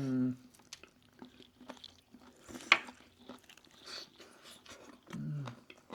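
Close-up chewing and mouth smacking while eating crispy roast chicken, with many small wet clicks and one sharp, loud click a little before the middle. A short hummed "mm" comes at the start and another near the end.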